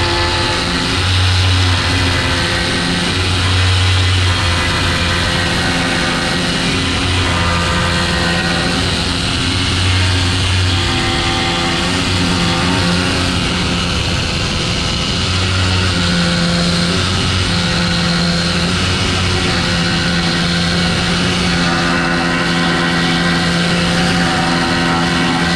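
Pneumatic needle scaler hammering hardened concrete off a steel skid steer concrete bucket: a loud, continuous buzzing rattle whose pitch shifts and steps up and down as the tool is worked.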